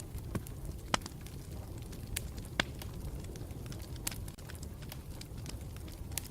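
Campfire burning with a steady low rumble and scattered sharp crackles and pops, the loudest about one and two and a half seconds in.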